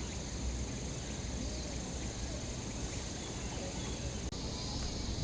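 Steady high-pitched insect chorus over a low outdoor rumble. After a brief dropout about four seconds in, the chorus sits lower in pitch.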